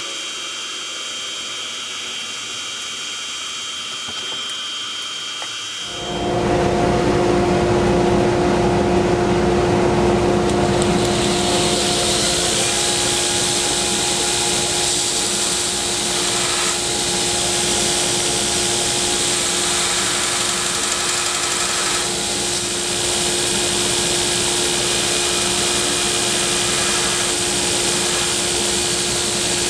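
A shop machine starts about six seconds in and then runs steadily: a constant hum with a hiss over it, after a fainter high hiss.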